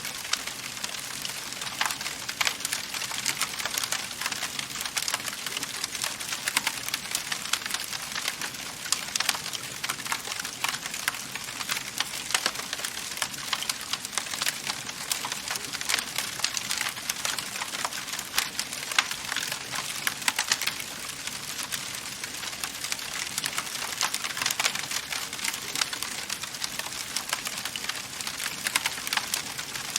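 Wood fire in a fireplace crackling: a dense, unbroken run of small snaps and pops over a soft hiss.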